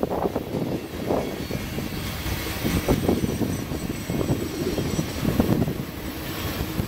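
Freight train cars, loaded centerbeam lumber flatcars, rolling past, their wheels clattering and rumbling on the rails in an uneven run of thumps.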